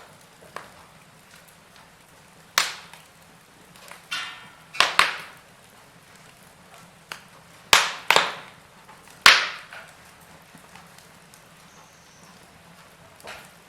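Wood fire in a fireplace crackling: irregular sharp pops and snaps, a cluster of the loudest between about five and nine seconds in, with a short hiss just before, over a faint steady background hiss.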